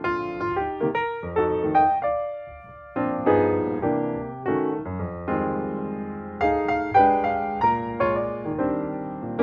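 Background piano music: gentle chords and melody notes, each struck and left to ring, with a short pause about two and a half seconds in.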